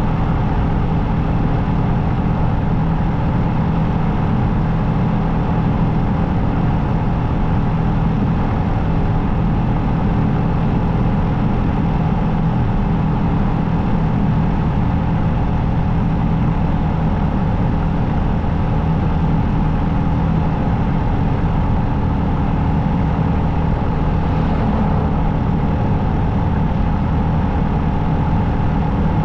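Motorcycle engine running steadily at an even cruising speed, with a constant rushing noise over it.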